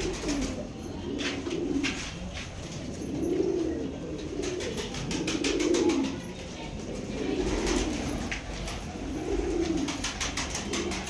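Domestic pigeons cooing: low, rolling coo phrases repeated every second or two, with light clicking in between.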